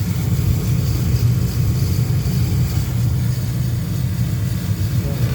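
Furnace motor running with a loud, steady low hum and rumble: the noise the owner puts down to a bad washer on the motor.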